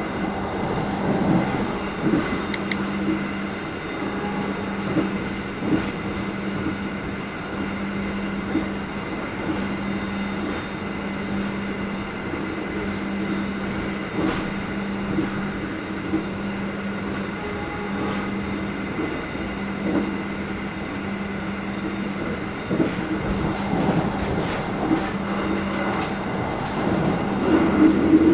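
Stainless-steel passenger train running at speed on double track, heard from on board: a steady running noise with a low hum, and scattered clicks from the wheels over the rails. It gets a little louder near the end.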